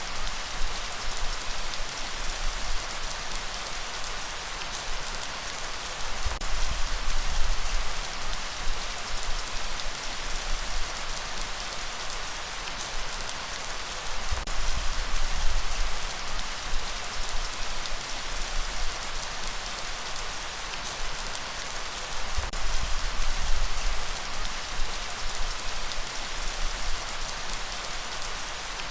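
Steady rain falling on surfaces: a dense, even hiss of drops, with a low rumble underneath that swells and fades every several seconds.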